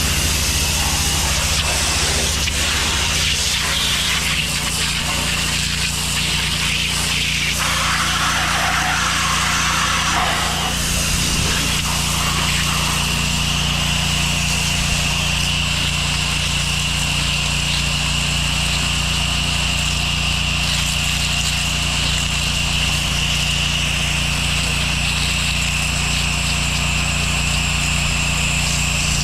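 Pressure washer running steadily: a constant engine drone under a hissing water spray, with a steady high whine over it. The hiss thickens for a few seconds near a third of the way in.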